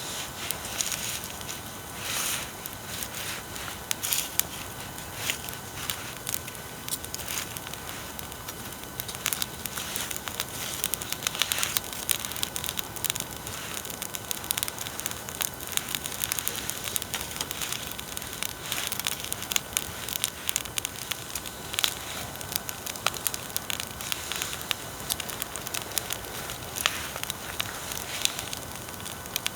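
Bonfire crackling and popping with irregular sharp snaps, over a steady hiss of recording-equipment noise.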